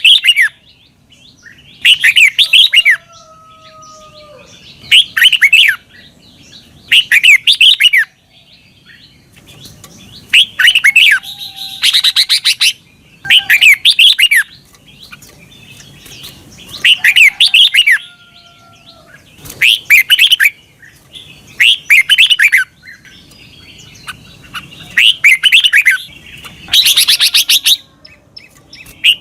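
Red-whiskered bulbul singing short, loud phrases of quick, twisting whistled notes, each about a second long and repeated roughly every two seconds.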